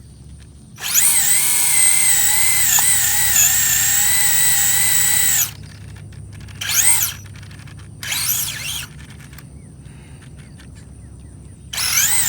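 RC drag car's motor and drivetrain whining at high throttle for about five seconds, then three short bursts of whine as the throttle is blipped.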